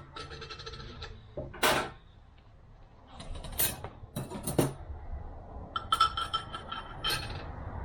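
Steel transmission clutch plates and friction discs clinking against each other as they are handled and stacked. Several sharp clinks, a few with a short metallic ring.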